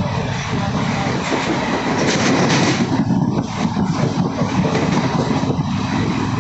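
Passenger train running on the rails: a steady rumble with rattling from the wheels and coaches.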